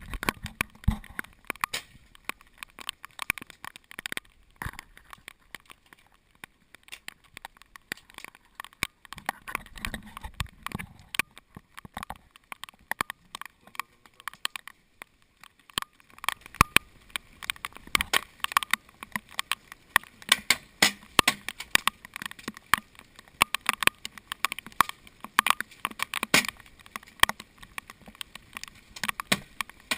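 Heavy rain drops striking the GoPro's housing close to the microphone: a dense, irregular patter of sharp clicks and cracks that grows thicker about halfway through.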